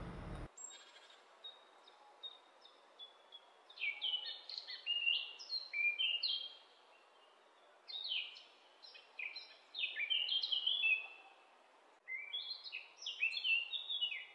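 Birds chirping: quick runs of short falling chirps in three spells, the loudest in the middle and near the end, over a faint steady hiss.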